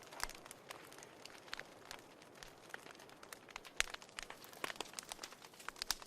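Wood fire crackling in a fireplace: a soft steady hiss of flame with irregular sharp pops and snaps, a few louder ones about four seconds in and near the end.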